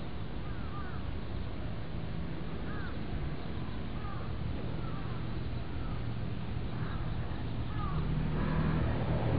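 Birds calling outdoors: short arched calls repeated about once a second, louder near the end, over a steady low hum.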